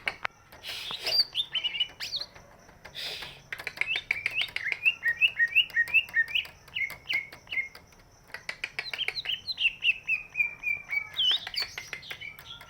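Cucak ijo (green leafbird) singing in a busy run of quick chirping, whistled notes mixed with sharp clicks, with two short harsh rasping bursts in the first few seconds.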